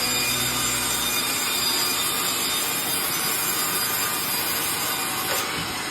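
A power saw cutting through wood, making a steady, even noise throughout.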